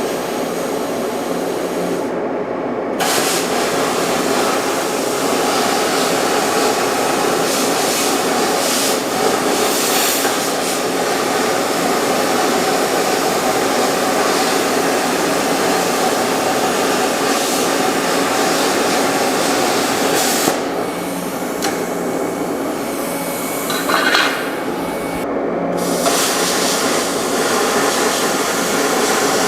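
Plasma cutter cutting 1/16-inch steel plate: a loud, steady hiss of air and arc, its high hiss dropping out briefly about two seconds in and again near the end.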